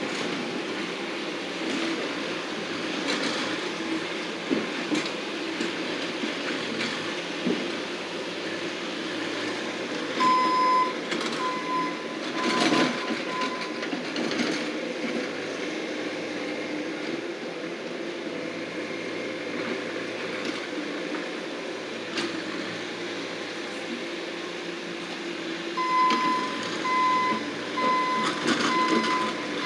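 Bobcat skid-steer loader running steadily under work, with its reversing alarm beeping in two runs of evenly spaced beeps, about a third of the way in and again near the end. A brief louder surge of machine noise comes in the middle of the first run of beeps.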